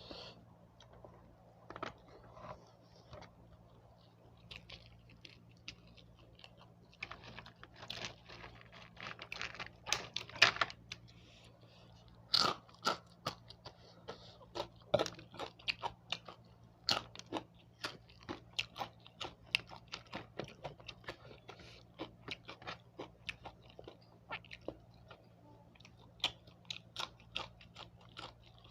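A person biting and chewing crunchy food close to the microphone: sharp crunches, scattered at first, then coming steadily two or three a second through the second half.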